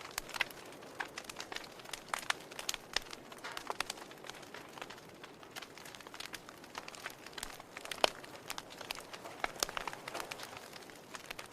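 Wood fire crackling in a fireplace: irregular snaps and pops over a soft hiss, with one sharper pop about eight seconds in.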